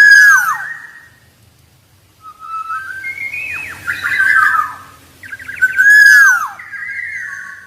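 Black-naped oriole singing: loud, fluty whistled phrases with quick downward slurs, three bursts separated by short pauses.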